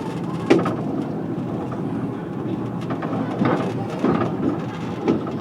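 Running noise of a heritage train heard on board: a steady rumble of wheels on the rails, with sharp knocks and rattles every second or so from the wheels and carriage.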